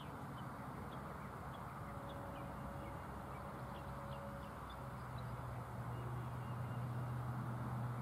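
Small birds chirping in short, high calls, scattered through the first half, over a steady low hum that grows louder in the second half.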